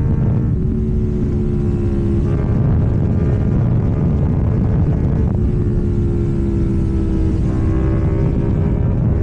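KTM Duke 790's parallel-twin engine through an Arrow full exhaust system, running at a nearly steady engine speed whose note eases down slightly a couple of times.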